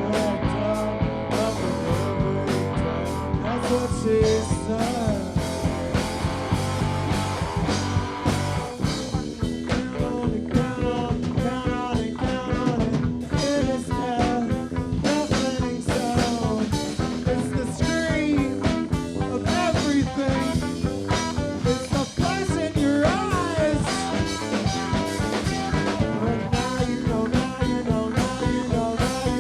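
A live rock band playing a passage without words: a steady drum beat under distorted electric guitars, with a wavering melodic line coming in about nine seconds in.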